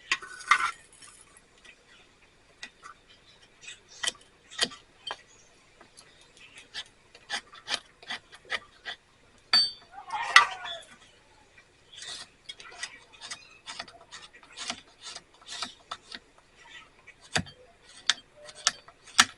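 Steel striker scraped repeatedly down a flint to throw sparks into damp tinder: dozens of short, sharp rasping strikes at an uneven pace, several a second in quick runs, with one longer scrape about ten seconds in. The tinder is too damp to catch.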